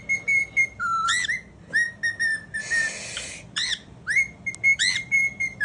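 Cockatiel whistling: quick chirpy notes that sweep up and down, mixed with held whistles at one steady pitch. About halfway through comes a brief harsh, raspy call.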